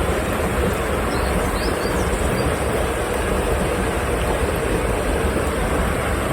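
Mountain stream rushing over rocks: a loud, steady roar of running water.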